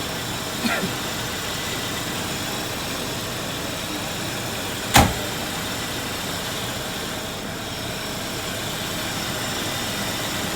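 Car engine idling steadily, running normally again now that water in the gasoline and a clogged injector have been dealt with. A single sharp knock sounds about five seconds in.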